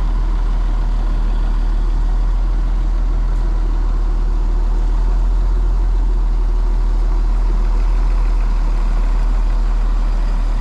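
Engine running steadily at a constant speed, with a strong deep hum.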